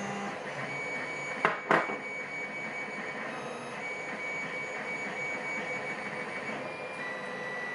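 Steady hiss of room noise, broken about a second and a half in by two sharp clicks a quarter of a second apart.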